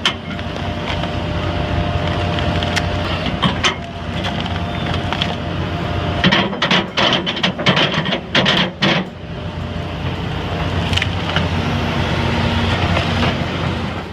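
Excavator with a stump-cutting attachment running steadily while it cuts into a tree stump. Wood cracks and splinters in a rapid run of sharp snaps about halfway through, with a few single cracks before and after.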